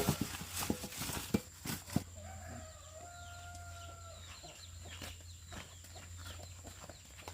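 A rooster crowing once, one long held call, after a few sharp knocks in the first two seconds; light scattered ticking follows.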